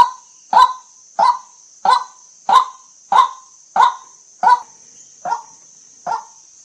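White-breasted waterhen calling a rapid string of short, harsh 'kwak' notes, about one and a half a second, the notes weakening and spacing out slightly near the end.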